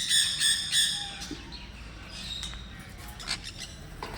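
Small pet birds chirping: a quick run of loud, sharp calls in the first second, then softer scattered chirps.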